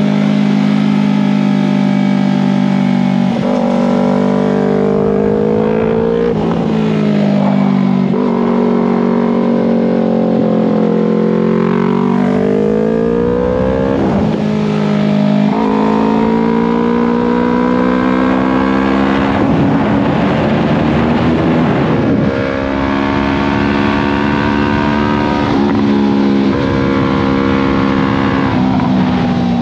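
Yamaha R3's parallel-twin engine at high revs, heard from onboard the bike, its pitch climbing under acceleration and dropping sharply at each gear change or when the throttle is rolled off, several times over. Wind noise on the microphone rises for a few seconds past the middle.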